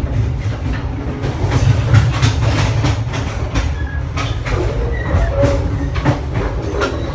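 Passenger train running at speed, heard on board: a steady low rumble with repeated clacks of the wheels over rail joints.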